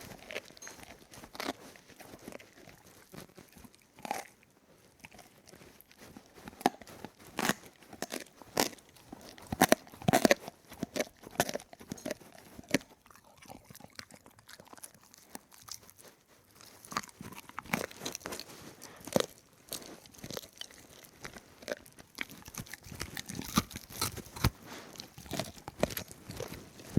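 Crunchy food being bitten and chewed: irregular crisp crunches, sparser for a few seconds around the middle.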